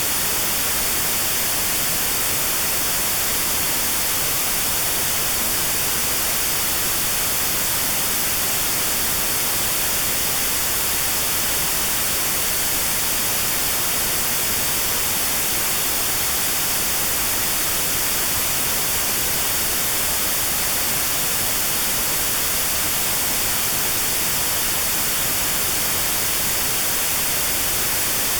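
Steady synthetic white noise with a narrow band around 4 kHz cut out (notched), used as tinnitus sound therapy; an even, unchanging hiss.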